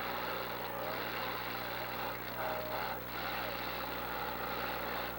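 Demolition derby cars' engines running and revving, with short rises and falls in pitch over a steady dense din.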